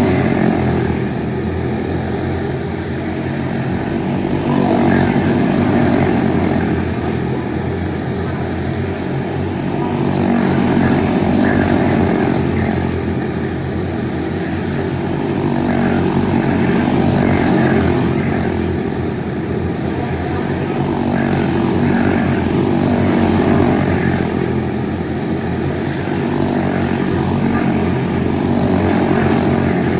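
Racing kart engine running hard and continuously, its sound swelling and easing in a regular cycle about every six seconds.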